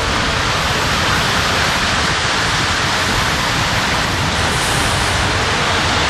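O scale model train running on suspended track, heard as a steady, even rushing noise with a faint tone near the end.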